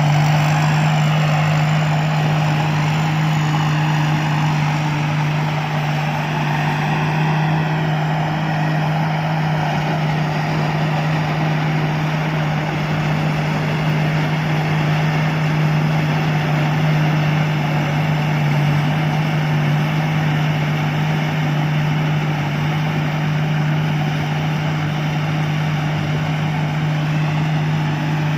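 Combine harvester's diesel engine and machinery running steadily, with a constant low drone under a wide mechanical noise.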